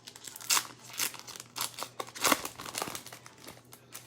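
Plastic trading-card pack wrapper crinkling and tearing as it is ripped open, in a run of irregular crackles with the sharpest ones about half a second in and just after two seconds.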